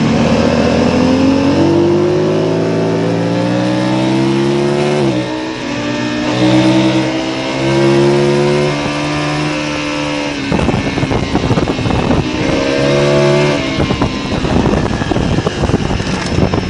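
Motorcycle engine accelerating hard, its pitch climbing for about five seconds and then dropping sharply, as at a gear change, before pulling again. About ten seconds in, heavy wind buffeting on the microphone takes over, with the engine note coming back briefly.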